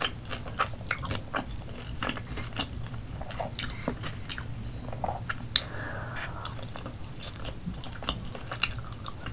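Close-miked chewing and biting of grilled chicken thigh, with many sharp, wet mouth clicks. A short soft rustle about six seconds in.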